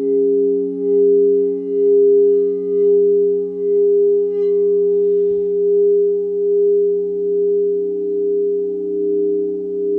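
Singing bowls sounding a sustained drone of several low tones held together, the sound swelling and fading about once a second as the pitches beat against each other. Faint higher ringing partials sit over it in the first few seconds, then fade.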